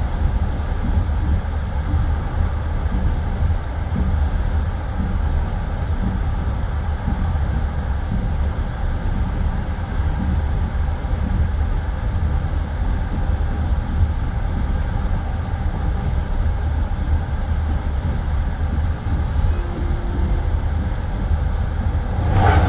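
Passenger train carriage running along the line, heard from inside: a steady low rumble of wheels on the rails, with a brief louder surge near the end.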